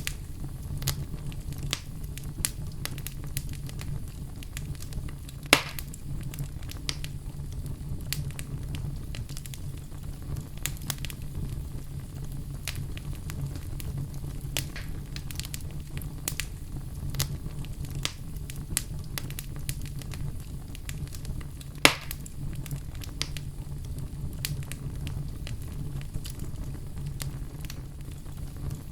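Wood fire crackling in a fireplace: a steady low rumble under frequent small pops and crackles, with two louder snaps, one about five seconds in and one about three-quarters of the way through.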